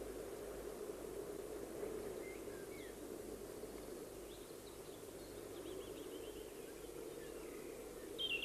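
Faint, high, short chirps of small birds: a few scattered calls, then a brighter one near the end, over a steady background hiss.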